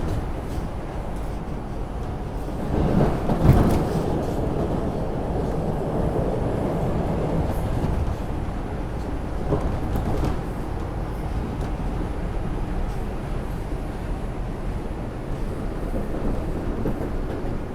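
R142 subway car running along the track, heard from inside the car: a steady rumble of wheels on rail, with a louder burst of clatter about three seconds in.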